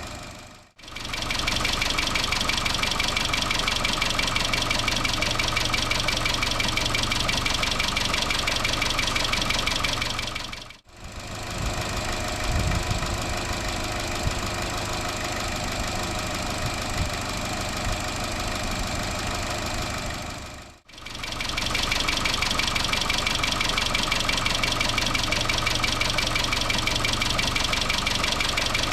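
2013 Chevrolet Cruze 1.4 turbo engine running with a fast, steady rattle from the valve lifters, which the uploader traces to lost oil pressure in the lifter oil galleries caused by a loose upper timing chain guide. The sound comes in three stretches, each cut off by a brief dropout.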